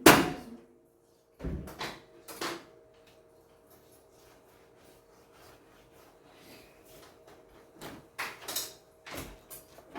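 Sharp knocks and clatter of household things being handled: a loud knock at the start, two more soon after, then a burst of several knocks near the end. Between them a faint steady hum.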